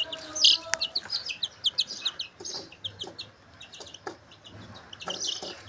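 Month-old chicks peeping over and over: a rapid run of short, high-pitched cheeps, several each second.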